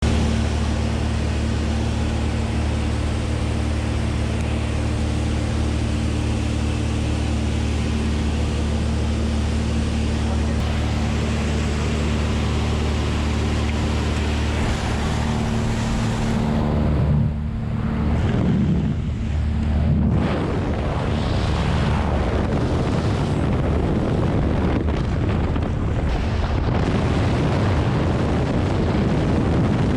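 Cessna's engine and propeller droning steadily, with wind noise on the microphone. About seventeen seconds in the engine tone breaks up and drops away, and a loud, even rush of wind takes over, typical of leaving the aircraft into freefall.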